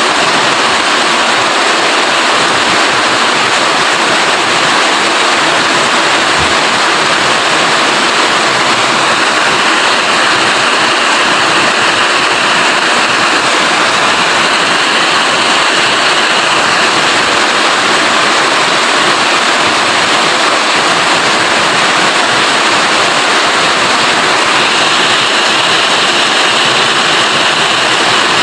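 Steady, heavy rain falling, a dense even hiss with no breaks.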